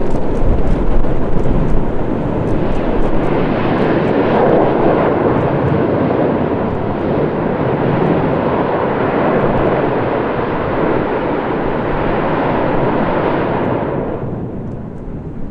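Mount Ibu volcano erupting: a loud, steady rushing noise of venting that holds for about fourteen seconds, then eases off near the end.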